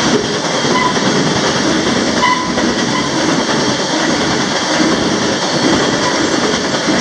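Steady rumble and rattle of a moving freight train, heard from the end platform of one of its cars as the wheels run over the rails. Two brief, faint squeals come through about a second and two seconds in.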